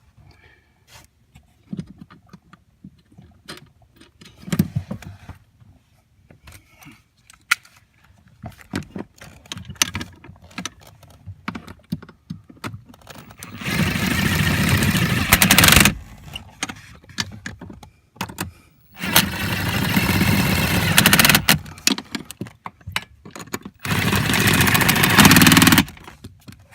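A ratchet tightening the three 10 mm nuts on the accelerator pedal mounting studs, in three runs of about two to three seconds each, in the second half. Before them come scattered small clicks and knocks as the nuts and tool are handled.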